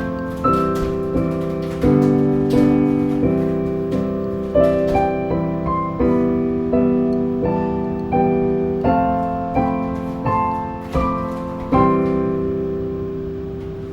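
Solo piano playing a slow, gentle closing passage of single notes over held chords, struck about every two-thirds of a second. It ends on a chord about twelve seconds in that is left to ring and fade away.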